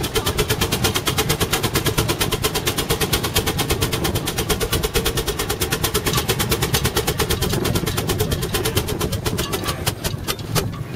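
Half-scale Case 65 hp steam traction engine working hard under load in a tractor pull, its exhaust chuffing rapidly, about ten sharp beats a second over a low rumble. Near the end the beats spread out and weaken as the engine eases off.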